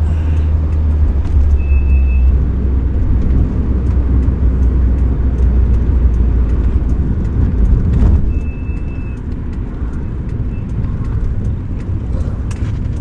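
1975 Alfa Romeo GTV's twin-cam four-cylinder engine running under way with road noise, a steady low rumble that gets quieter a little after halfway as the throttle eases.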